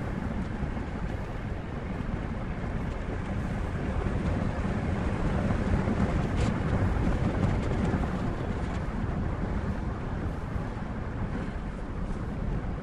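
Steady low rumble of a heavy vehicle running, a little louder in the middle.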